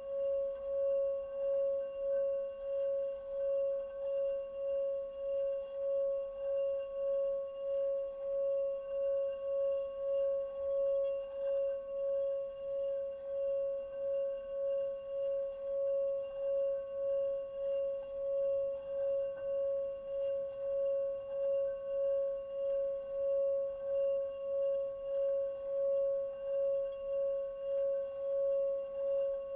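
Singing bowl sounding one continuous, unbroken ringing tone with several higher overtones and a steady wobble of about one and a half pulses a second, with no fresh strikes: a constant tone used as a focus for concentration meditation.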